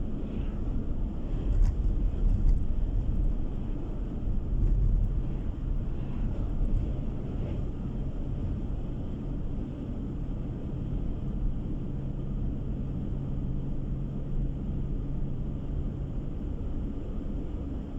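Car driving on the road, heard from inside the cabin: a steady low rumble of engine and tyres with a constant hum, a little louder in the first few seconds.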